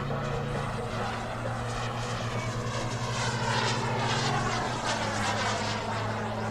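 Radio-controlled model aircraft flying past, its engine pitch sweeping down as it passes about halfway through. A steady low hum runs underneath.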